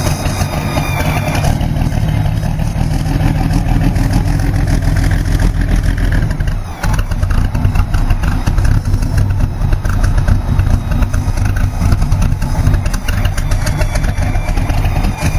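Supercharged Allison V-1710 V12 aircraft engine running in a hot rod, a steady deep rumble with a brief dip in level about seven seconds in.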